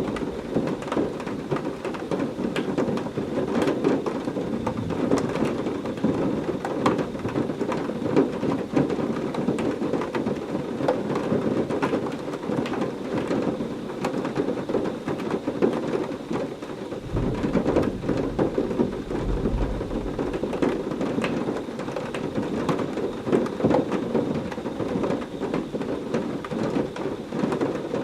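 Heavy rain falling steadily in a thunderstorm, a dense patter of drops. About 17 seconds in, a low roll of thunder rumbles for a few seconds.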